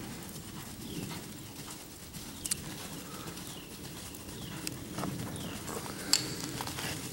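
A bird calling over and over, a series of short downward-sliding whistled notes less than a second apart, with a horse's hoofbeats on arena dirt beneath and a couple of sharp clicks.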